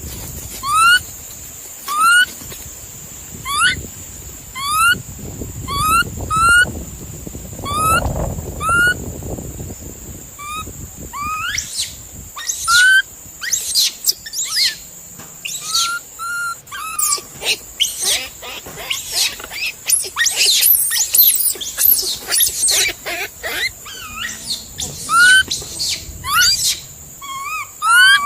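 Chirping animal calls: a short rising chirp repeated about once a second, then a dense stretch of many overlapping high calls before single chirps return near the end.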